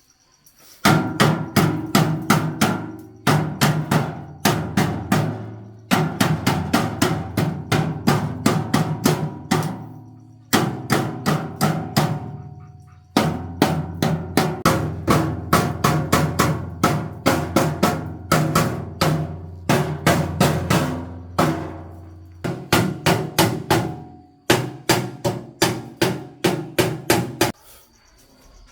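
Repeated hammer blows on metal, about four or five a second, in runs of a few seconds with short pauses between them, each strike leaving a ringing tone.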